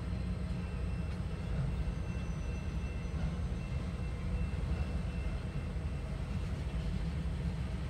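Freight train of autorack cars rolling past a grade crossing: a steady low rumble, heard from inside a car.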